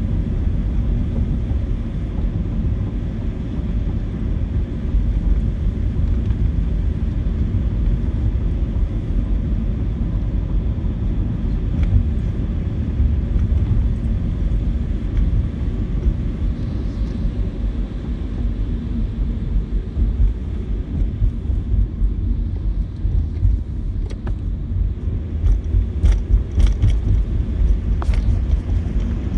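Car driving on wet roads in the rain, heard from inside the cabin: a steady low rumble of engine and tyres. A few faint clicks come near the end.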